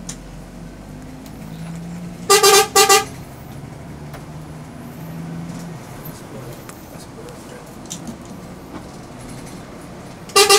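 Horn of a Scania bus sounding several short loud blasts in quick succession about two seconds in, then one more short blast near the end, over the steady drone of the bus running on the road.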